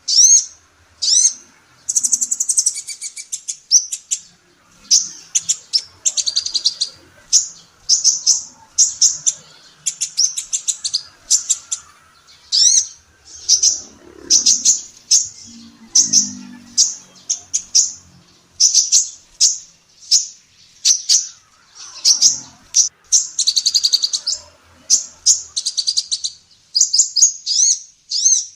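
Female sunbird (kolibri ninja) calling busily: a continuous string of short, high-pitched chirps and quick sweeping notes, several a second, with hardly a pause.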